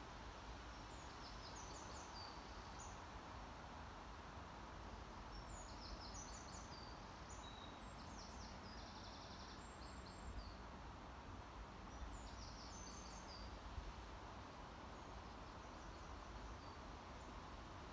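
Quiet outdoor ambience: a steady hiss of background noise, with a small songbird singing short, high chirping phrases every second or two.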